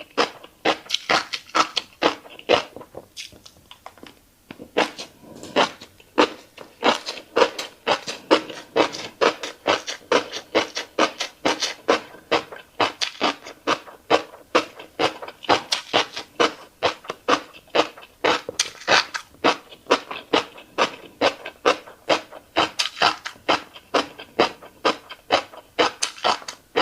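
Close-miked chewing of a mouthful of fish roe: quick, wet mouth smacks about three a second, with a short pause about three seconds in.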